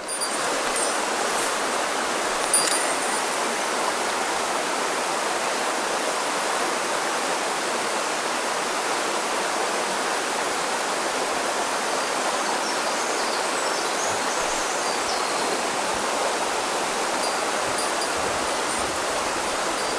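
Mountain stream water flowing in a steady, even rush, with one faint click about two and a half seconds in.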